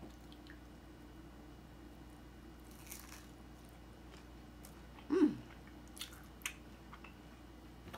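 A person chewing a crunchy hard-shell taco, with a few sharp crunches and mouth clicks spread through the quiet. About five seconds in comes a short hum that falls in pitch.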